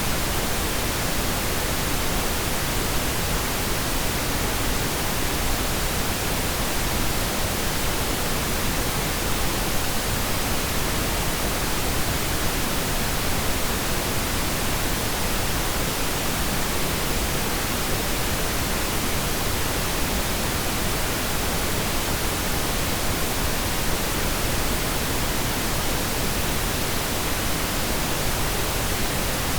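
Steady, even pink noise: a continuous soft hiss with no changes or distinct sounds.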